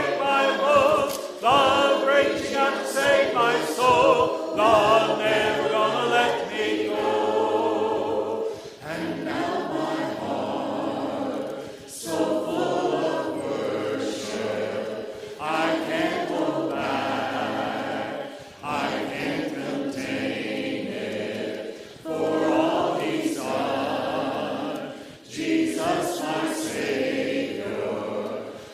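A group of voices singing a worship song together in long sustained phrases, with a short breath-break every three to four seconds.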